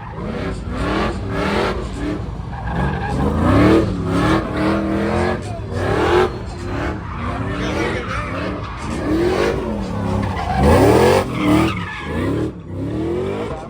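Car engine revving hard, its pitch rising and falling over and over, with tyre squeal from the car skidding.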